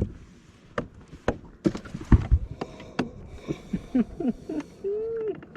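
Irregular knocks and taps, with one heavy low thump about two seconds in, followed by several short squeaky pitched sounds and one longer tone near the end.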